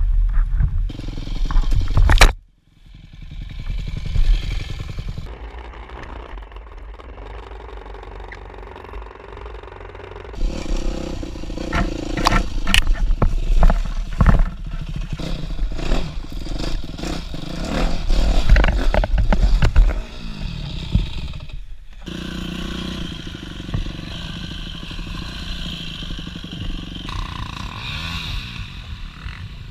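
Dirt bike engine running and revving, with knocks and clattering, broken by several abrupt cuts where the sound stops and starts again.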